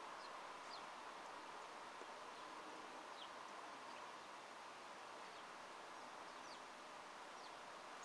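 Small birds chirping faintly: about ten short, high, falling notes scattered over a steady background hiss.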